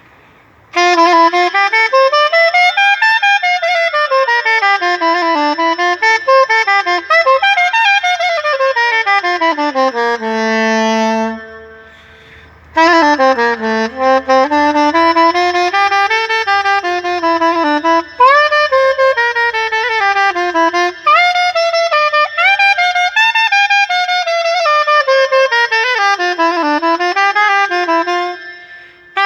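New Selmer soprano saxophone played solo: a flowing melody of runs up and down, a long low held note about ten seconds in, a short pause, then more phrases with notes scooped up into pitch, ending near the close.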